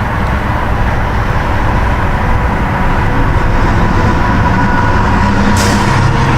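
Road traffic: a motor vehicle's engine and tyre noise, a steady rumble that grows slowly louder as it comes closer, with a short hiss near the end.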